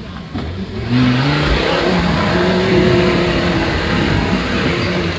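Off-road vehicle engine revving hard, most likely the GAZ-69 special's: it jumps louder about a second in, the pitch climbs, then it is held high and labouring.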